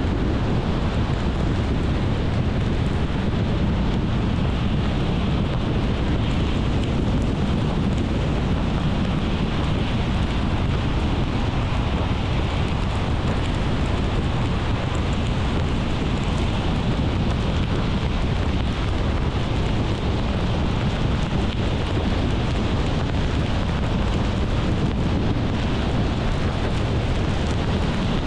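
Car on the move: steady road and wind noise, a low rumble with a hiss over it, unchanging throughout.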